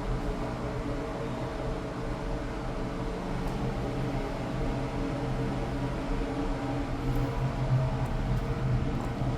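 A ferry's engines and ventilation droning steadily, a low hum with several held tones over an even rush of noise.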